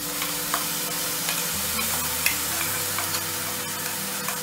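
Wet ground green masala with fresh coconut sizzling steadily as it hits hot oil in a nonstick kadhai, with a few small clicks on top.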